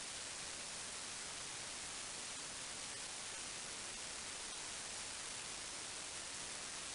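Steady, even hiss like static, with no other sound standing out.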